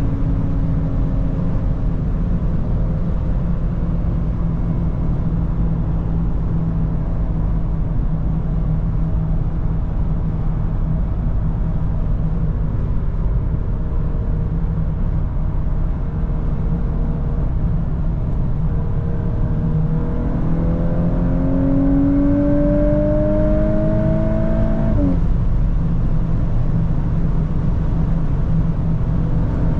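VW Golf 8R's turbocharged 2.0-litre four-cylinder with an Akrapovic exhaust cruising at highway speed over a steady low road-and-engine drone. About two-thirds of the way in the engine note rises for about five seconds under acceleration, then drops abruptly at an upshift before settling back to a steady cruise.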